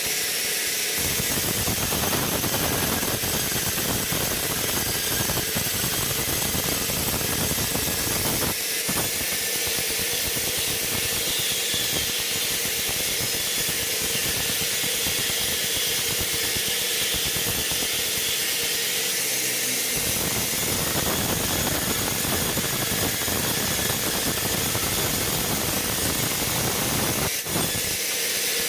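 Sawmill machinery running steadily with a loud hiss and a constant hum. It grows fuller and heavier for two long stretches, from about a second in to about eight seconds, and again from about twenty to twenty-seven seconds.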